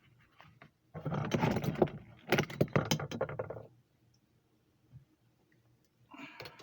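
Clattering and clinking of tools and parts being handled, a dense run of sharp rattles lasting nearly three seconds from about a second in, then a short burst near the end.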